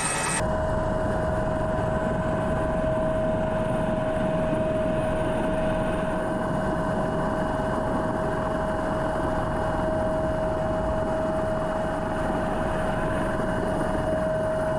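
Steady helicopter engine and rotor noise as heard inside the cabin: a constant dense drone with a high, unchanging whine over it.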